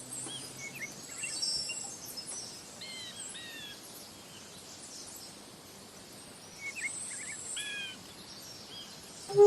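Bird calls, short chirps and curved whistled notes with a few high trills, over a faint steady hiss.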